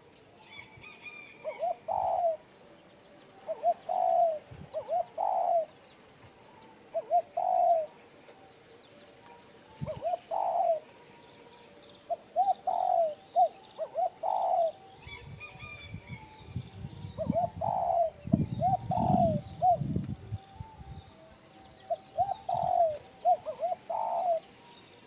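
A dove cooing in repeated phrases: a few quick short coos followed by a longer one, every couple of seconds. A faint higher chirp of another bird comes twice, and low rumbling noise runs under the cooing from the middle until a few seconds before the end.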